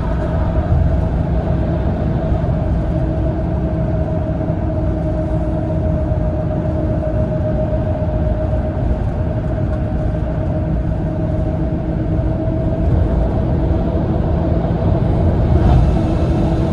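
Cabin noise inside a moving Mitsubishi Fuso Aero Ace coach: a steady low drone of engine and tyres at road speed, with a steady whine running through it.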